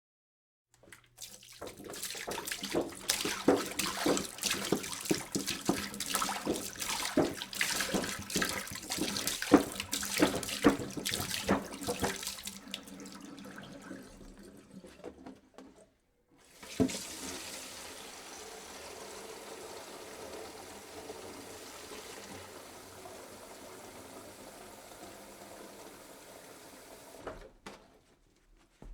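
Water being poured into a jug in two pours: the first splashy and uneven with many sharp splashes, trailing off to a brief stop about halfway; the second a steadier, even stream that stops shortly before the end.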